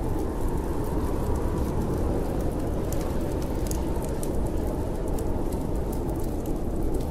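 Snowstorm wind blowing as a steady low rushing, with scattered sharp crackles and pops from a wood fire in a fireplace.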